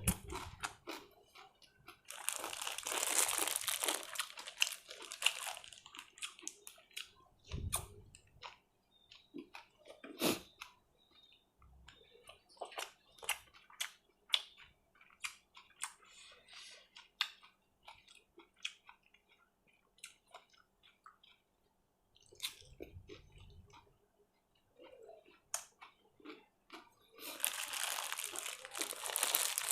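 A person eating close to the microphone: chewing and crunching with many sharp mouth clicks. There are two spells of crinkling, a couple of seconds in and near the end.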